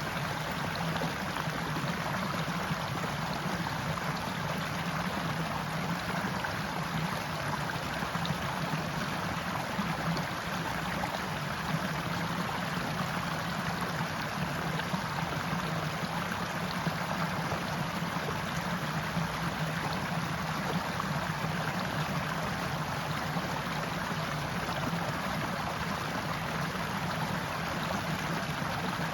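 Forest stream flowing: a steady, even rush and murmur of running water.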